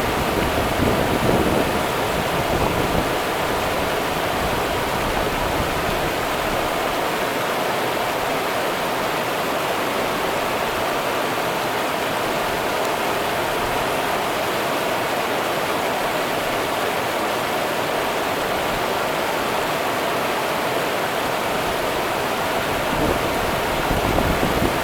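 The Rio Grande's water running in a steady, even rush, with a heavier low rumble in the first couple of seconds and again near the end.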